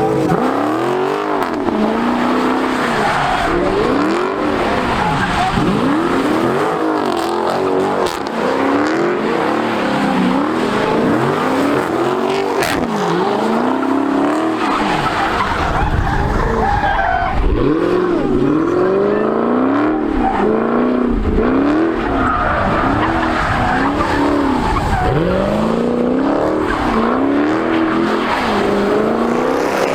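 Car engine revving hard and falling back over and over, every second or two, with its tyres squealing as it spins them in a burnout.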